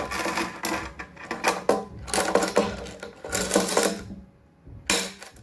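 Metal coins clattering and jingling as an African grey parrot tosses and scatters them. The clatter runs for about four seconds, stops briefly, and one last clatter comes near the end.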